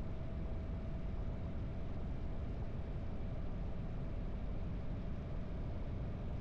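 Harley-Davidson V-twin motorcycle engine running steadily under way, with a faint steady whine over the low engine noise.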